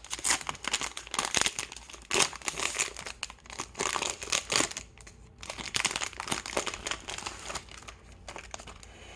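Plastic wrapper of a trading card pack crinkling as it is torn open and handled, in dense irregular crackles that thin out near the end.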